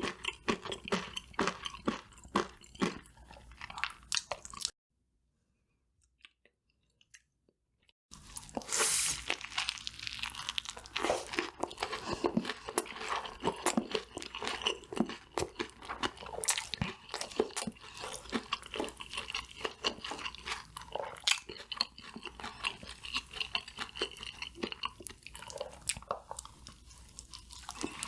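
Close-miked chewing and crunching of crispy fried food, many irregular crackly bites and chews, broken by a few seconds of dead silence about five seconds in.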